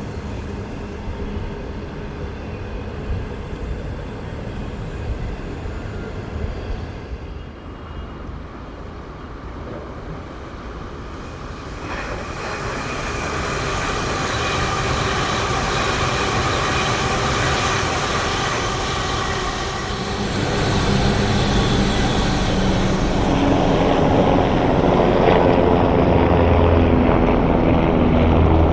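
Train running past on the Guangzhou–Shenzhen railway: a steady rumble with several held tones grows louder over the second half as it comes close, then cuts off suddenly near the end.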